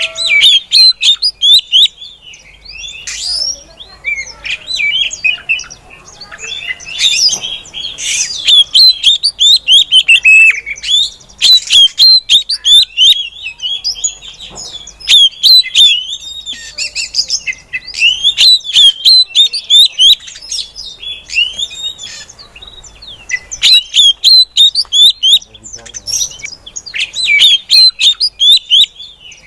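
Female Oriental magpie-robin (kacer) calling: rapid runs of high chirping notes in spells, broken by short pauses.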